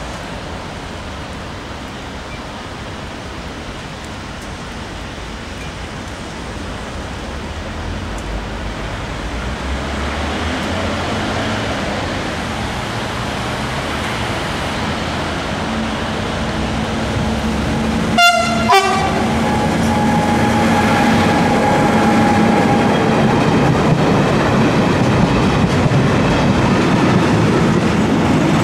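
Freight train approaching in the rain, its rumble growing steadily louder. The locomotive sounds two short horn blasts about half a second apart a little past halfway, then the loco and its wagons roll past with clattering wheels.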